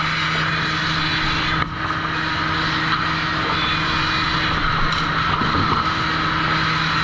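Sawmill machinery running steadily at the trim saw: a constant hum under a loud, even rushing noise, with a brief dip about a second and a half in.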